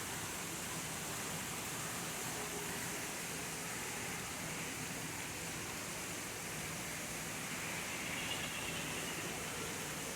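Steady, even rushing noise with no distinct events, and a faint short high tone about eight seconds in.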